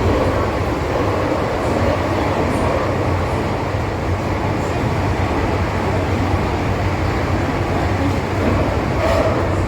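MTR Kwun Tong line M-Train running between stations, a steady rumble with a low hum throughout.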